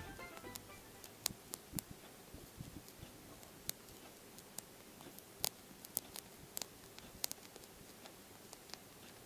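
Japanese swallowtail caterpillar chewing a citrus leaf close to the microphone: faint, irregular crisp clicks of its jaws biting through the leaf, some louder than others.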